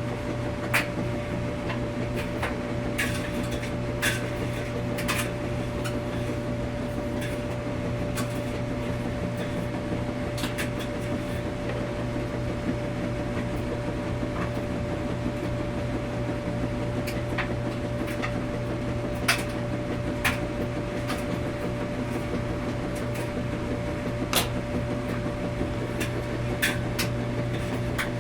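Washing machine running with a steady low hum and a steady higher tone, with irregular light clicks and knocks from time to time.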